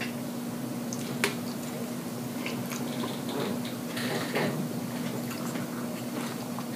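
Wet chewing and mouth sounds of someone eating with their mouth open, with scattered small clicks and one sharp click about a second in, over a steady low hum.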